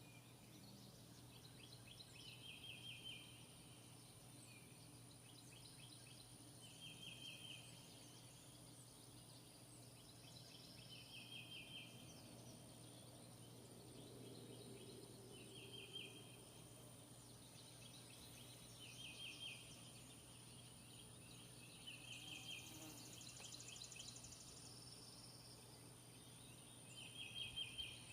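Faint outdoor ambience: an animal's short high trilled call repeats about every four seconds, over a steady low hum.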